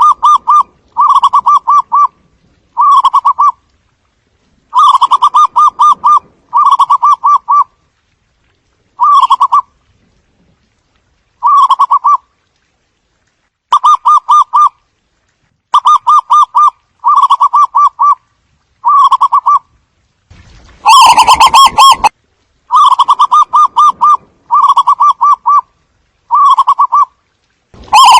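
Zebra dove calling: short phrases of rapid staccato cooing, each about a second long, repeated every second or two. The recording is loud, and one phrase about two-thirds of the way through is harsh and distorted.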